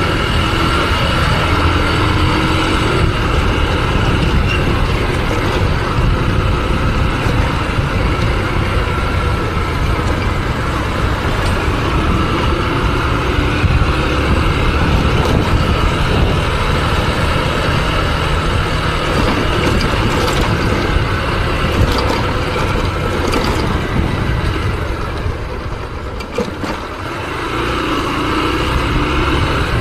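Motorcycle being ridden: engine running under steady road and wind noise, easing off briefly a few seconds before the end and then picking up again.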